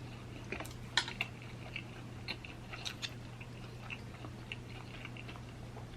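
A person chewing tender oxtail meat close to the microphone: soft, irregular wet mouth clicks and smacks over a faint steady low hum.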